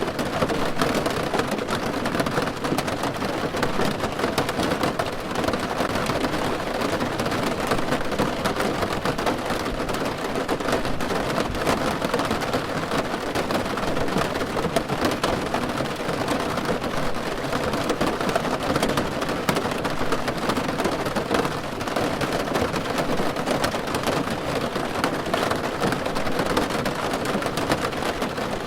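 Rain falling steadily on a car roof: a dense, even patter of many drops with no let-up.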